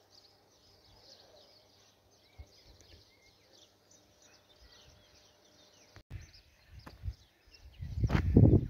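Small birds chirping faintly in quick, high, scattered calls over a quiet outdoor background. Near the end, loud low rumbling noise sets in suddenly.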